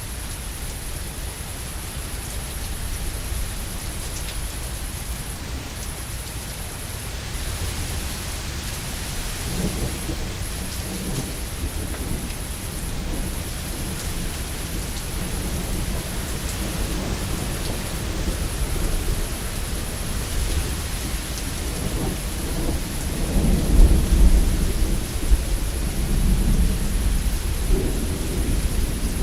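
Steady heavy rain with rolling thunder: a low rumble swells about a third of the way in and grows loudest near the end.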